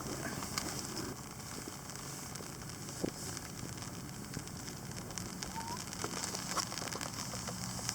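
Steady patter of rain, with scattered small ticks and crackles and one sharper tick about three seconds in.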